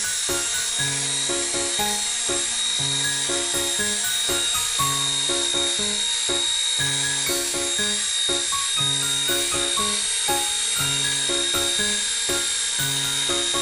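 Steady high-pitched whine and hiss of an XK K124 micro RC helicopter's electric motors and rotors running, under background music with a repeating melody.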